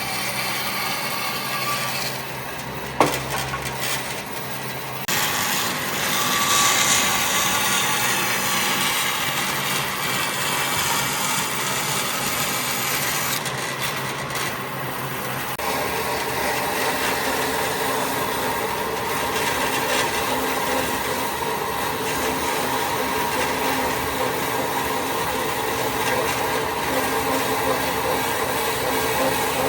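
Power tools working wood: a steady grinding, rasping noise, with a sharp knock about three seconds in and changes in the sound about five and fifteen seconds in.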